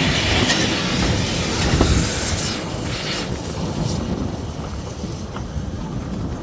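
Rumble and rattle of a moving railway carriage heard from on board, with a few sharp clicks; the high hiss falls away suddenly a little over three seconds in, leaving a lower rumble.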